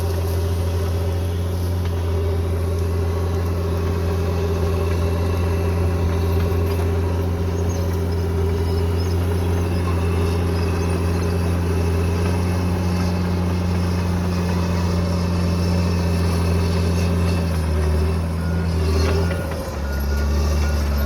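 Heavy earthmoving machine's diesel engine running steadily under load, with a brief drop and change in its note about three-quarters of the way through before it steadies again.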